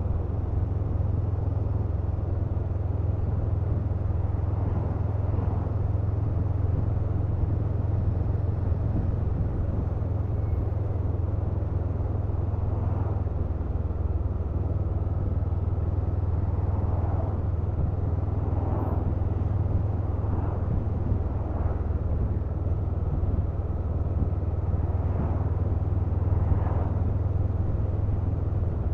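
Honda CMX500 Rebel's parallel-twin engine running steadily while riding, a constant low drone.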